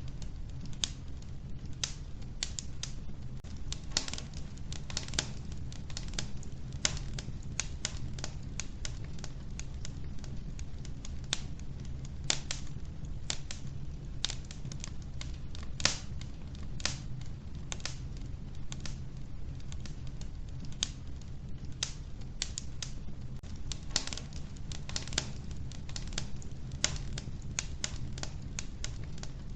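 Wood fire burning in a wood stove: irregular sharp crackles and pops from the burning logs, several a second, over a steady low rumble of the flames.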